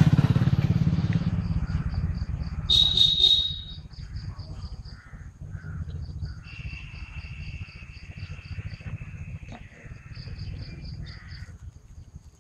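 High bird chirps repeat about four times a second in several runs, with one sharp, louder call about three seconds in. A low rumble fades out over the first second or two.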